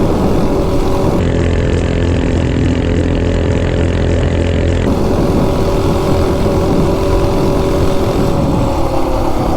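Coleman RSV minibike's 196cc single-cylinder engine running flat out at a steady high rev through a header pipe, at close to top speed, with wind rushing over the microphone.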